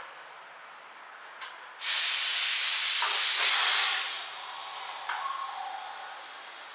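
A loud hiss of air being blown into a car's fuel line for about two seconds, cutting off and leaving a fainter hiss. The air is pushed through to check whether the line is clogged.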